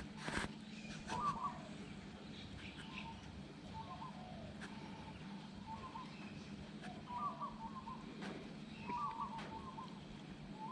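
Faint birdsong: short clusters of warbled notes repeating every second or two, over a low steady hum.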